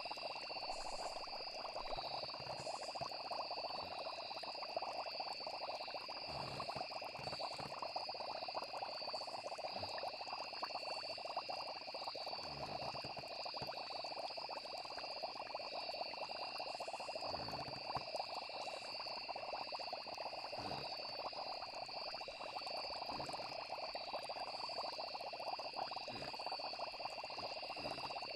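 Night chorus of frogs and insects, trilling steadily without a break, with a few low bubbling blips now and then.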